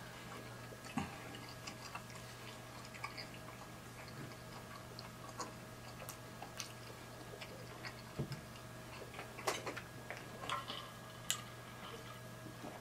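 Close-miked eating sounds: soft chewing and scattered small wet mouth clicks, a few at a time, over a faint steady electrical hum.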